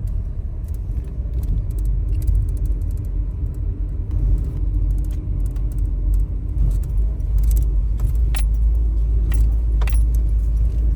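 Car driving, heard from inside the cabin: a steady low engine and road rumble, with light rattling and jingling clicks throughout.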